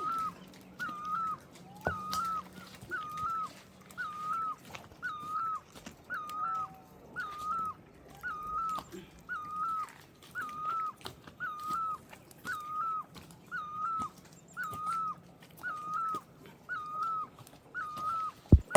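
An animal's short, high, wavering call repeated very evenly about once a second, with a sharp knock near the end.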